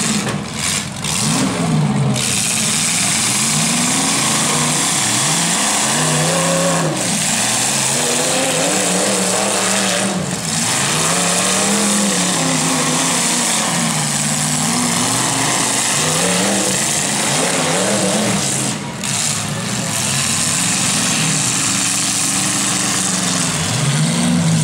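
Demolition-derby pickup truck engines revving up and down over and over, each rev a rising then falling pitch, over a loud steady din.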